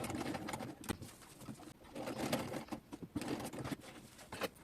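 Sigma sewing machine stitching a short seam in two runs, a short one and then a longer one of about two seconds, with a brief stop between them.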